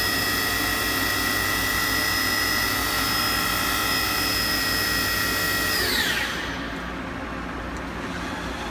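Spindle of a 1993 Awea PB2110 vertical machining center running at speed with a steady high-pitched whine, then spinning down about six seconds in, its pitch falling quickly until it stops. A quieter, steady machine hum remains after.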